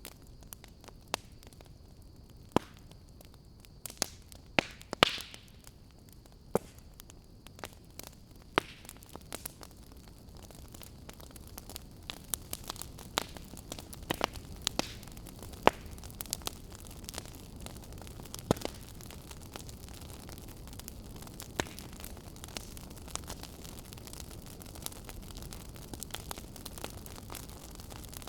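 Wood fire in a fireplace crackling: irregular sharp pops and snaps over a steady low hiss, the hiss growing a little louder about ten seconds in.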